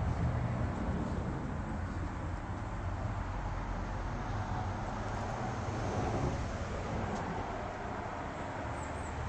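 Steady low rumbling noise, even throughout, with a few faint clicks.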